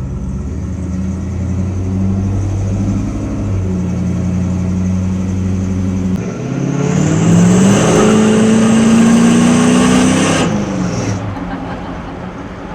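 1983 Chevy C10 pickup's engine and 2.5-inch exhaust running at a steady pace, then, about six seconds in, accelerating hard with the revs climbing for around four seconds. The engine then backs off suddenly and the note falls away.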